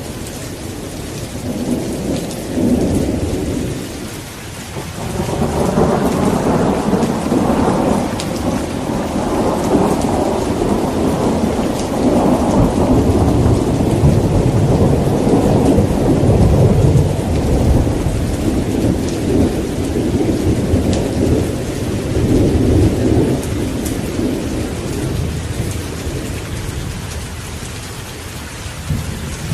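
Steady rain falling, with a brief low rumble of thunder early on and then a long roll of thunder starting about five seconds in that swells, rumbles on for many seconds and slowly dies away near the end.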